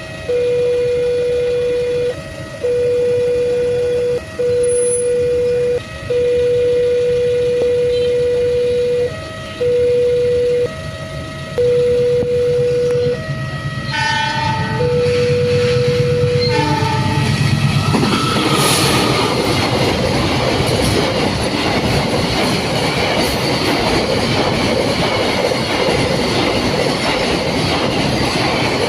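A steady two-pitch warning tone sounds in long repeated blasts with short breaks. Near the middle a horn sounds over it. Then the Aksara Cargo freight train passes, its wheels rumbling and clacking over the rails.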